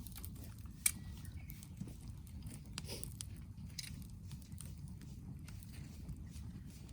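Wood campfire crackling: an irregular scatter of small snaps over a low steady rumble, with one sharp pop about a second in.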